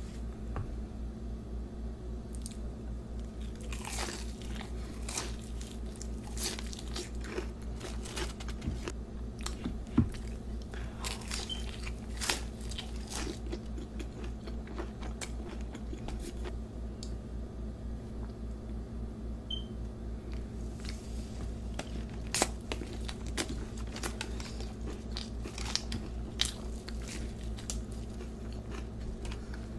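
Close-miked eating: a person biting and chewing crunchy fried chicken, with irregular sharp crunches and crackles. A steady low hum runs underneath.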